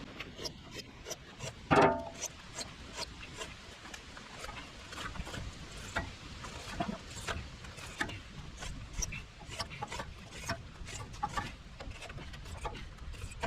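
Hand file scraping along the edge of a woodchipper knife in short, uneven strokes, a few a second, sharpening the blade. There is one louder knock about two seconds in.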